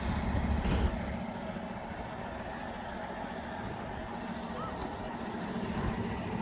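Semi-truck diesel engine idling with a steady low hum, with a short hiss less than a second in.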